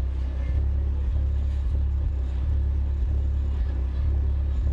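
Pioneer TS-D10D4 10-inch car subwoofer playing a bass test track of low tones mixed together, the deep notes switching every half second or so.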